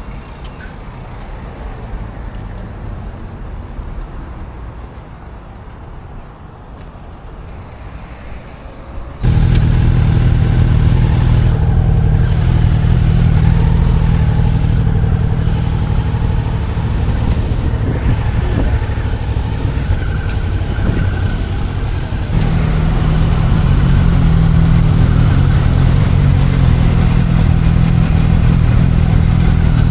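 Suzuki V-Strom 650's V-twin engine running under way on the road, fairly quiet for the first nine seconds, then suddenly much louder, with a further rise about 22 seconds in as the bike gets onto the highway.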